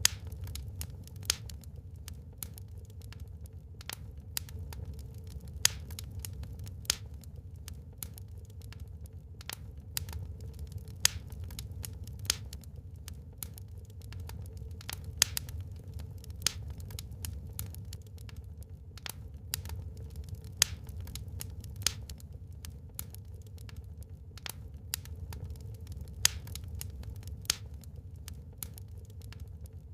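Wood fire burning in a fireplace: a steady low rumble of the flames with irregular sharp crackles and pops from the burning logs, a few of them much louder than the rest.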